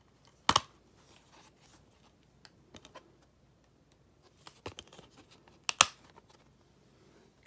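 Blu-ray cases and cardboard slipcovers being handled, making a few sharp plastic clicks and taps with light scraping between them. The loudest clicks come about two seconds before the end.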